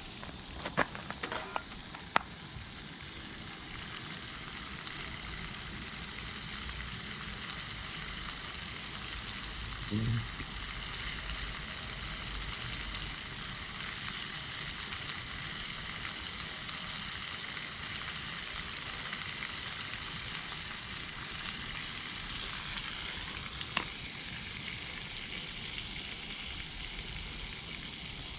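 Formed meat sizzling as it grills over a campfire: a steady hiss, with a few sharp pops in the first couple of seconds and another near the end.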